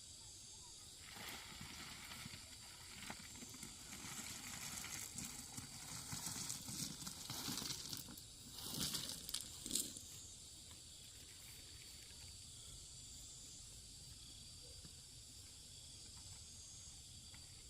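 Irregular rustling and scraping noises for most of the first ten seconds, loudest shortly before they stop, over a steady high-pitched chirring of insects that carries on alone afterwards.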